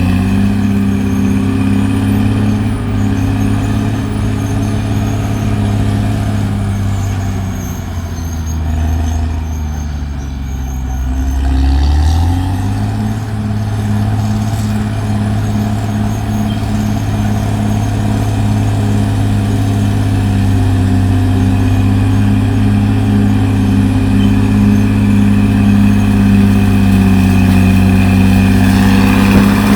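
CAT D6R XL bulldozer's diesel engine running loudly, its pitch sagging for a few seconds about a quarter of the way in, then rising back and holding steady.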